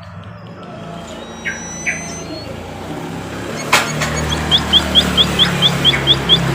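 White-headed munia (emprit kaji) calling: a few thin high whistles, then a quick run of about nine short high chirps near the end, at roughly four a second. A low engine hum like a passing vehicle rises underneath from about halfway through.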